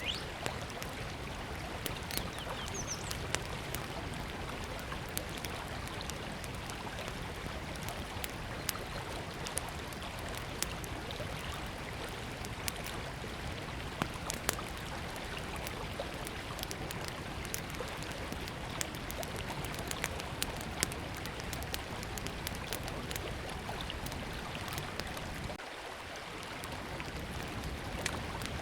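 Small wood fire crackling with scattered sharp pops over the steady rush of river water. A brief bird chirp about three seconds in.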